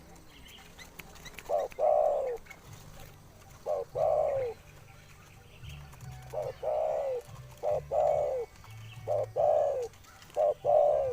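A dove cooing: a short note followed by a longer coo that falls in pitch, repeated about six times, one to two seconds apart.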